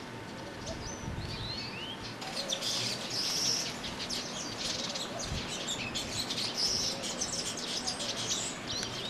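Many small birds chirping and twittering, with quick swooping whistles; the twittering grows dense about three seconds in and again around seven seconds.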